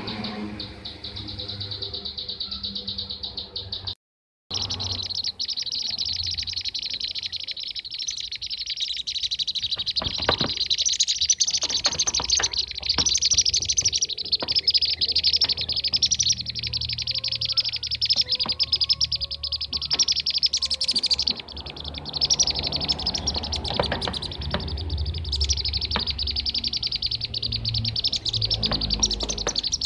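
Bee-eaters (kirik-kirik) calling in a dense, continuous chatter of rapid high chirps, played as a lure recording to draw in wild birds. The sound cuts out for about half a second around four seconds in, then the chirping resumes.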